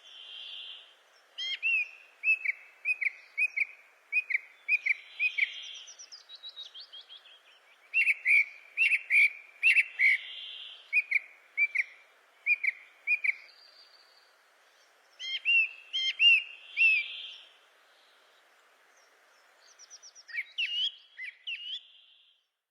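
Songbirds singing: phrases of quick, repeated chirps broken by short pauses, with a softer whistled note from another bird every few seconds.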